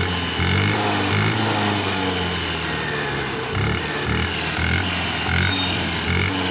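Hero Pleasure+ BS6 scooter's 110 cc single-cylinder engine being revved up and down, its exhaust sounding like an auto-rickshaw. The harsh note comes from the silencer, where one of the two internal pipes leading to the filter has rotted through.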